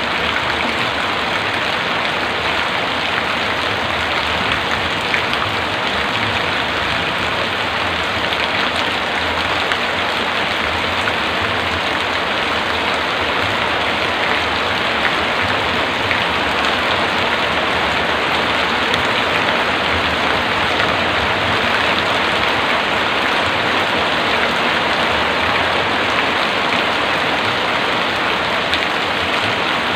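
Heavy rain falling steadily on surfaces, a dense, even patter with no let-up.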